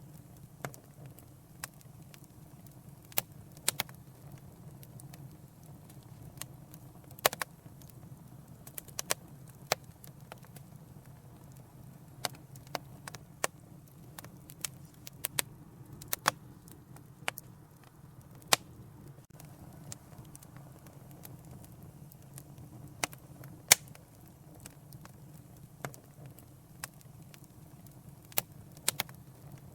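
Wood fire in a fireplace crackling, with sharp irregular pops about once a second over a low steady rumble of the flames.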